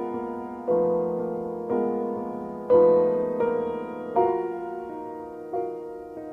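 Soft background piano music: single chords or notes struck about once a second, each ringing and fading before the next.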